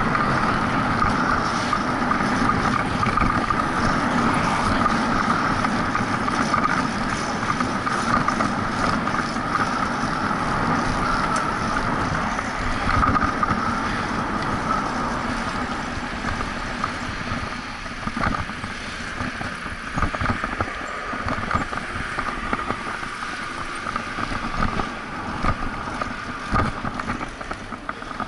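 Wind rushing over the microphone and road noise from a moving bicycle, with a few short knocks in the second half.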